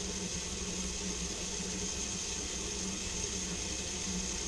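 Garden hose on full blast pouring water down an open drain pipe: a steady rush of running water. The water is going down without backing up, a sign that the snaked-out clog is cleared.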